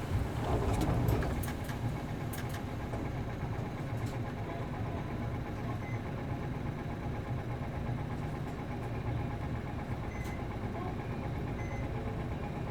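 A route bus's MD92TJ diesel engine running steadily, heard from inside the passenger cabin. A brief louder rush of noise comes about a second in.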